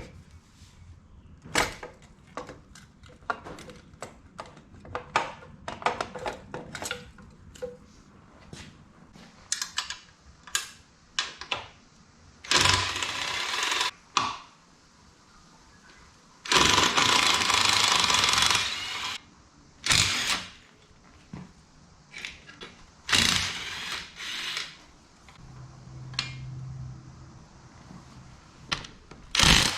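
Workshop tool sounds from taking apart a Yamaha XS650 motorcycle to get its engine out: scattered metallic clicks and knocks, with two longer bursts of a power tool about twelve and seventeen seconds in.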